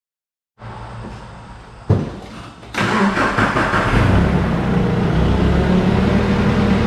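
A vehicle engine starting: a sharp knock about two seconds in, then the engine catches and runs steadily.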